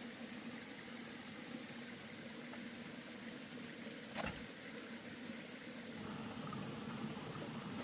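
Faint, steady high-pitched insect chirring, with a single short knock about four seconds in.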